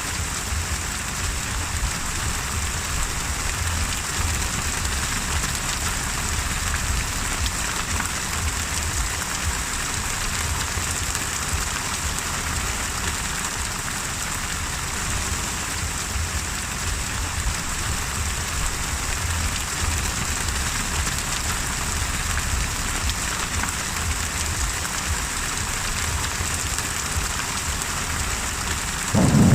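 Steady heavy rain falling in an even hiss. Just before the end, a loud low rumble of thunder suddenly breaks in.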